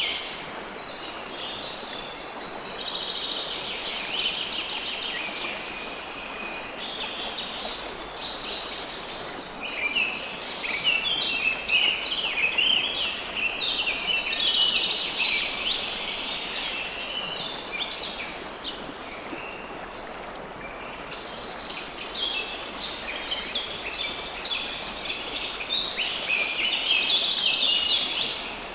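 River water flowing steadily, with many birds chirping over it in quick, overlapping calls.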